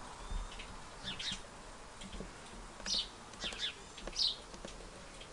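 Small birds chirping: a handful of short, high chirps, the loudest about four seconds in, over a faint low background rumble.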